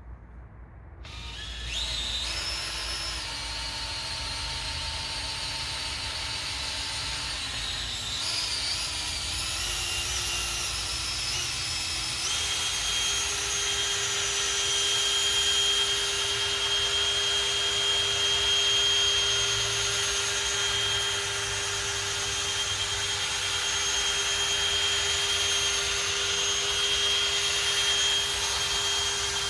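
Electric drill spinning a foam polishing pad on a plastic headlight lens with plastic polish. Its whine starts about a second in, shifts in pitch a few times over the first dozen seconds, then holds steady.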